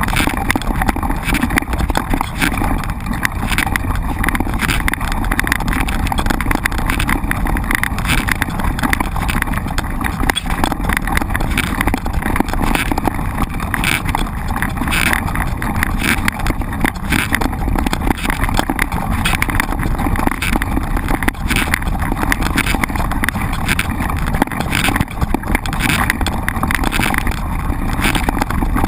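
Wind buffeting a bike-mounted action camera's microphone while a mountain bike rides over a rough trail. Steady loud rumble, with frequent irregular knocks and rattles from the bike jolting over bumps.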